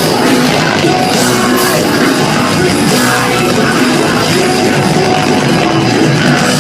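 A live rock band playing loudly, with distorted guitars and drums, and some singing.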